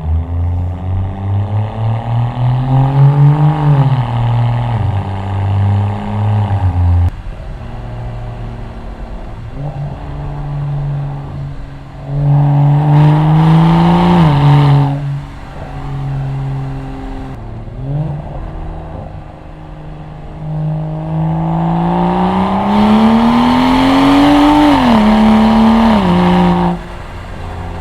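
Muffler-deleted BMW 335i's N54 twin-turbo inline-six exhaust, recorded at the rear bumper, pulling hard several times under acceleration. The pitch climbs in each pull and drops suddenly at its end, the longest and loudest pull coming near the end.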